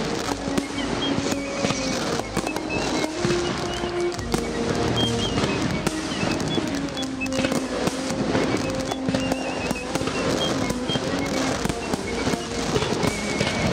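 Aerial firework shells bursting, with many sharp bangs and crackles in quick succession throughout, over added background music.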